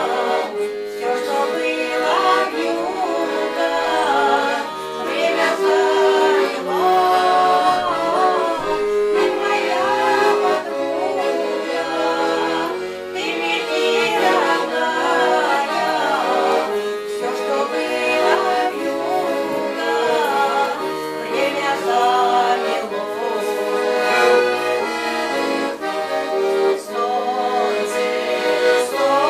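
Accordion playing a folk-style tune with chordal accompaniment, steady throughout.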